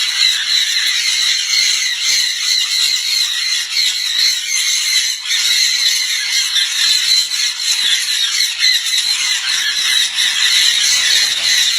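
Many small birds calling at once: a dense, unbroken, high-pitched chatter of overlapping chirps and squeals.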